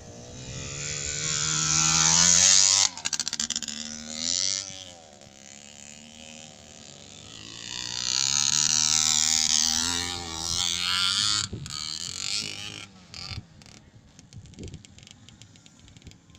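Engines of 50 cc motorcycles revving as the bikes race around a dirt track, their pitch climbing to a loud peak about two and a half seconds in, then breaking off suddenly. A second loud run of revving rises and falls from about eight to eleven seconds in, with fainter engine sound after.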